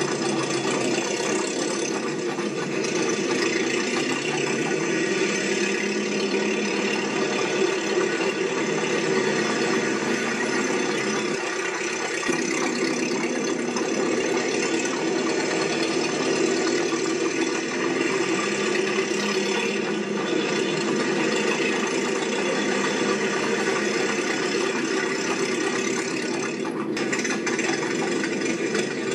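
Steady engine running with rattling, in the manner of early motorcars on a street.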